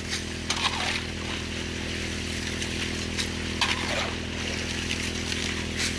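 Small petrol engine running steadily at a constant speed, typical of the water pump that feeds a highbanker sluice, with a few short, sharp sounds over it.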